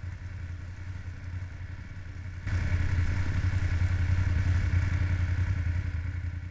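Motorcycle engine running with a steady, pulsing low note, noticeably louder from about two and a half seconds in.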